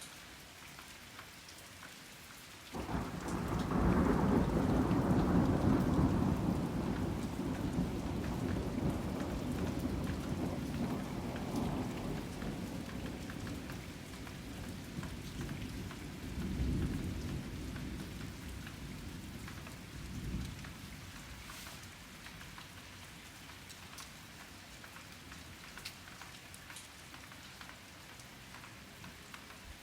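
Rain falling steadily, with thunder breaking in suddenly about three seconds in, rumbling loudest for a few seconds, then dying away over some fifteen seconds with a few swells before only the rain is left.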